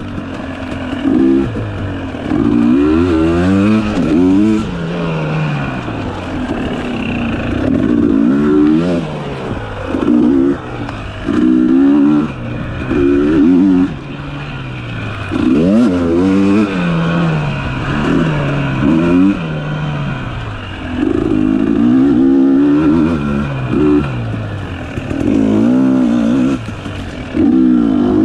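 Dirt bike engine revving hard and dropping back again and again, every second or two, with brief throttle-off dips between the bursts as the bike is ridden along trail.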